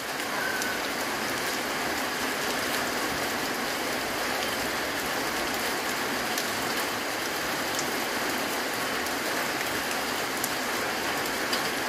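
Light rain falling and water dripping off the edge of a corrugated roof: a steady hiss of rain with scattered drip ticks.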